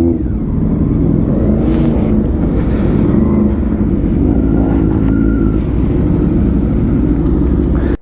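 Motorcycle engine running loud and steady at low speed through an aftermarket SC-Project exhaust, pitch wavering slightly, then cutting off suddenly at the end.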